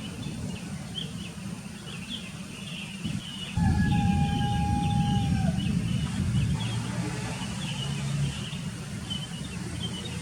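Many small birds chirping rapidly and continuously in high short notes. About three and a half seconds in, a low rumble swells and a single long, even-pitched tone sounds for about two seconds, dipping at its end.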